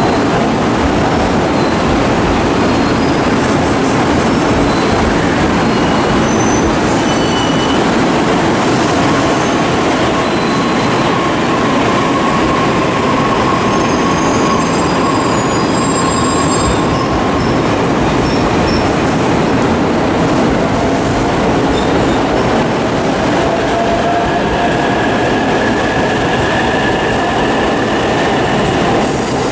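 JR East E531-series electric commuter train moving along the platform: a loud, steady rumble of wheels on rail with thin squealing tones from the wheels. Near the end a tone rises in pitch.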